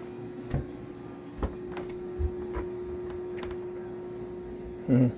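A steady electrical hum, with a handful of light knocks and clicks spread through it and a louder short pitched sound near the end.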